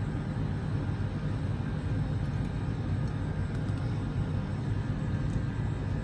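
Steady low rumble of continuous background noise, with a few faint ticks.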